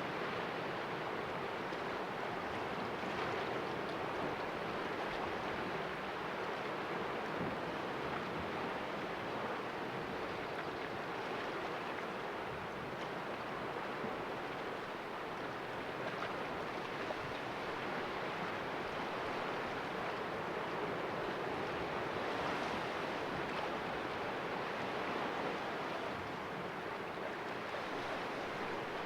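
Sea waves washing against the rocks of a cove: a steady, even surf with gentle swells in level and no distinct crashes.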